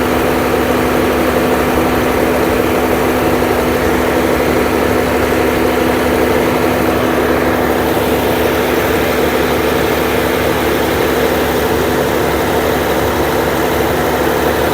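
Heavy diesel engines of concrete trucks running steadily at constant speed, with an even, unbroken hum and no change in pitch.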